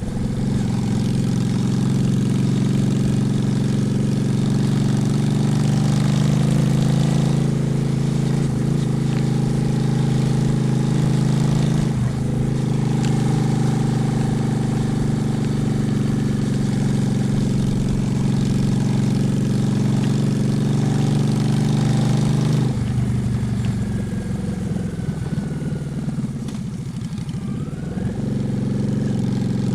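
Honda Shadow's V-twin engine running steadily under the rider. About three-quarters of the way through the engine note drops away to a lower, quieter run. It picks up again near the end.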